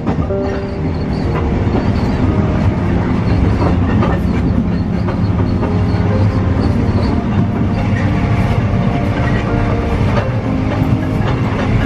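Passenger train in motion heard from inside a carriage: a steady low rumble with rattling and the clickety-clack of wheels over rail joints.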